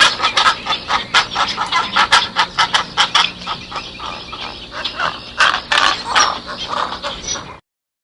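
Fowl-like birds calling in a dense run of short, sharp calls, several a second, cutting off suddenly near the end.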